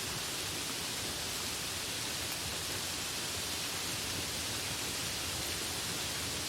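Steady rainfall, an even hiss with no change or thunder.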